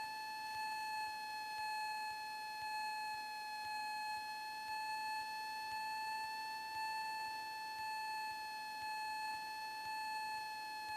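Steady high-pitched whine with several overtones in a Cessna 172M's cockpit headset audio during flight. It holds nearly one pitch and swells slightly in level every second or so, with little engine rumble.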